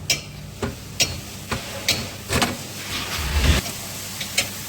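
Honda Activa 3G scooter's single-cylinder engine being started on its electric self-starter just after a repair of its noisy self-start. The engine catches smoothly with a low burst about three seconds in and then runs. It is preceded by sharp clicks about twice a second.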